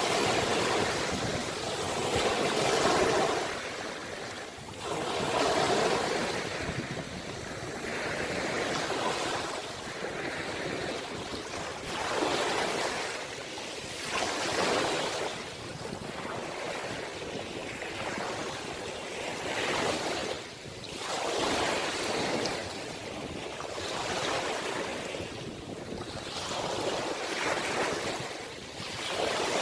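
Ocean waves breaking and washing on the shore, the surf swelling and falling away every two to three seconds.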